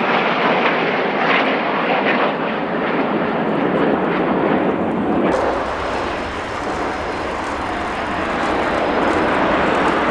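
BAE Hawk T1 jet trainers of the Red Arrows passing overhead, a steady roar of jet engine noise. About five seconds in the sound changes, gaining a sharper high hiss and a deeper rumble.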